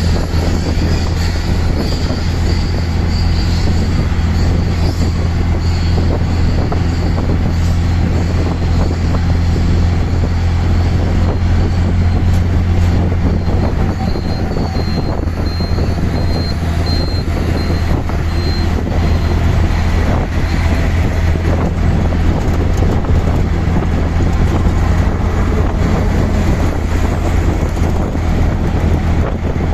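Auto rickshaw's small engine running steadily as it drives, a constant low drone under road and traffic noise.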